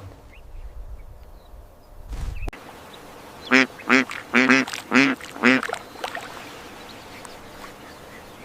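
Duck quacking: six short quacks in quick succession, about three seconds in, after a low rumble at the start.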